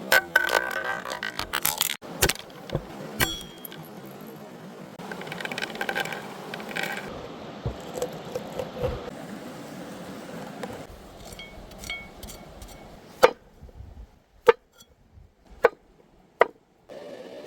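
Clinking, knocking and scraping of cooking utensils against pots and dishes. The sounds come thick and fast at first, then thin to a few separate sharp knocks near the end.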